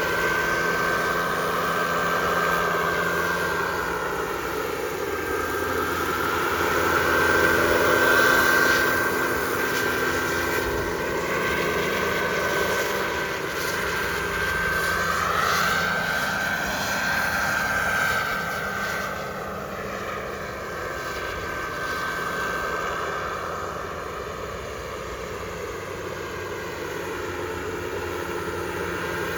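Turbine engine of an RC model jet whining steadily, swelling and fading as the plane flies passes; loudest about eight seconds in and again around sixteen seconds, then quieter.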